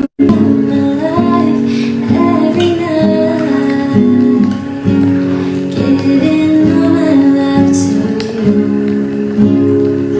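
Acoustic guitar music: plucked chords with a melody over them, dropping out for a split second right at the start.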